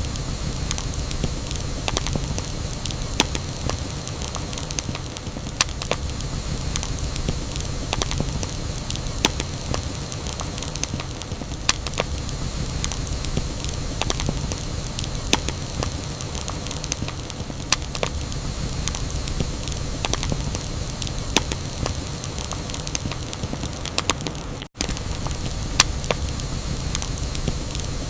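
Campfire crackling: irregular sharp pops and snaps over a steady low rumble of burning, broken by a split-second cut-out near the end.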